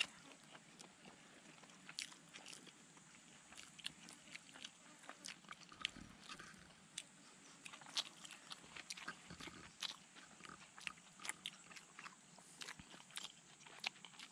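A person chewing grilled fish close to the microphone: a faint, irregular run of small clicks and crunches.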